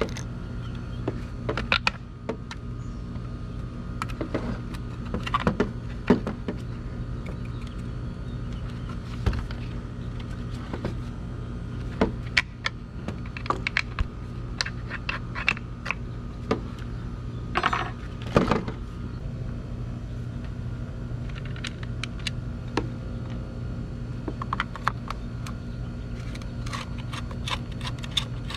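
Small parts of a Homelite string trimmer head clicking, rattling and scraping as it is taken apart by hand, with a brief longer scrape about two-thirds of the way in, over a steady low hum.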